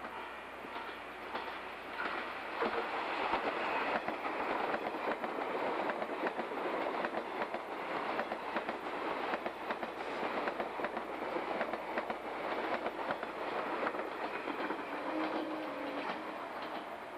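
381 series limited express electric train passing close at speed, its wheels clattering over the rail joints. The noise builds about two seconds in and eases off near the end.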